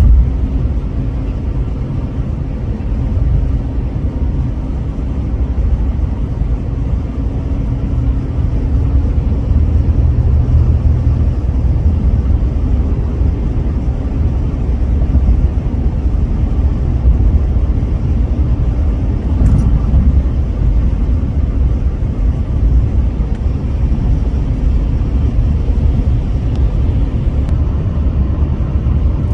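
Steady road noise inside a vehicle's cabin at highway speed: tyre rumble and engine drone, with a low engine hum that eases off about ten seconds in.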